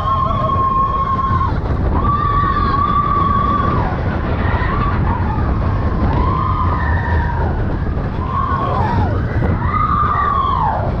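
Mine-train roller coaster rumbling loudly along its track, with riders letting out screams one after another: held cries that rise and fall, about a second each.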